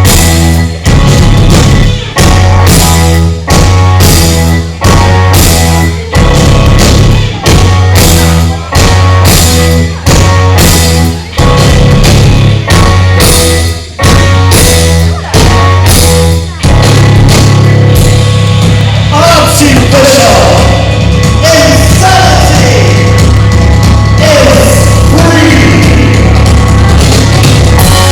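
Loud rock music from a band: short chord hits with gaps about once a second, then the band plays on continuously from a little past the middle, with a voice singing over it.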